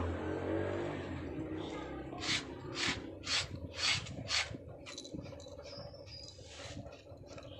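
Rhythmic scratching strokes through a cat's fur, about two a second, loudest in the middle and then fainter.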